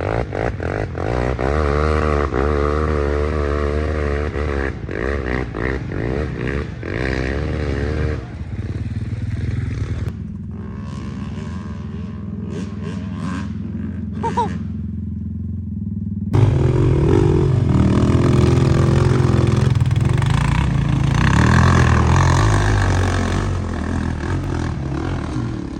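Off-road quad and dirt bike engines running and revving under load, the pitch wavering quickly up and down. The sound changes abruptly about ten seconds in and again past the midpoint, where it steadies and grows louder.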